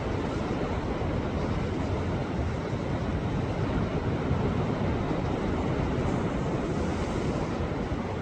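Sea waves breaking against shoreline rocks: a steady rushing surf noise that brightens slightly about six seconds in.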